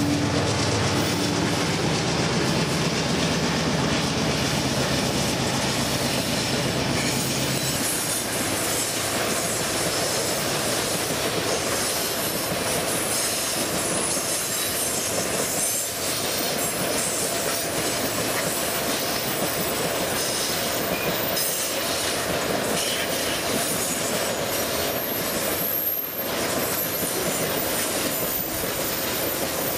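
Diesel freight locomotives running as they pass, their low engine drone dropping away about eight seconds in. After it a long string of freight wagons rolls by with steady wheel noise and squealing wheel flanges on the curve.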